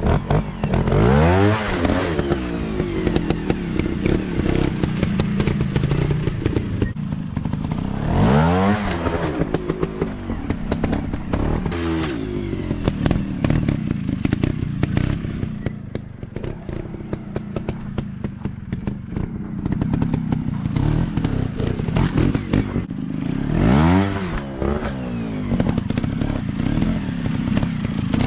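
Small dirt bike engines revving hard in bursts, the pitch sweeping up and back down about four times, over steady engine running. Clattering knocks run throughout.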